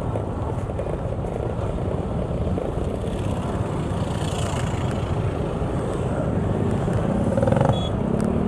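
Steady vehicle engine and road rumble heard while riding along a street, with wind buffeting the microphone. Near the end there is a brief higher-pitched tone.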